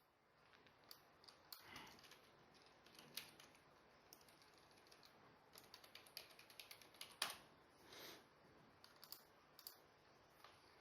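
Faint typing on a keyboard: a run of soft, irregular key clicks.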